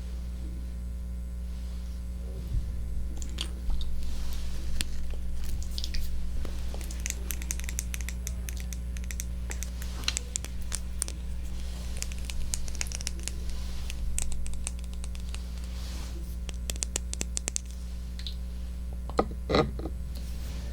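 Close-miked ASMR trigger sounds on a binaural microphone: many short crisp clicks and crackles with squishy, sticky textures, with a louder cluster near the end, over a steady low hum.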